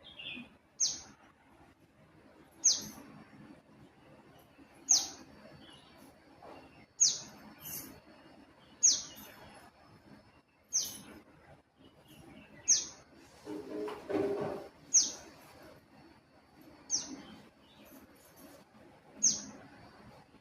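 A bird calling: one short, sharp, high note that drops quickly in pitch, repeated about every two seconds, ten times in all. Around the middle, a lower, rougher sound is heard for about a second.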